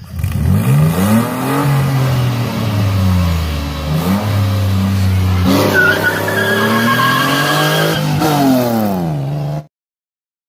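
Nissan V6 car engine at full throttle from a race launch, revving up through the gears: the pitch climbs, drops at each upshift and climbs again several times. The sound cuts off abruptly near the end.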